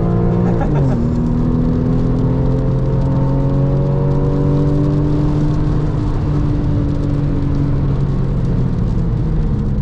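Porsche 996.2 Carrera's flat-six engine and valved sport exhaust heard from inside the cabin under acceleration: the engine pitch drops at a gear change just under a second in, then climbs slowly for several seconds before fading near the end. Steady noise of tyres on the wet track runs beneath it.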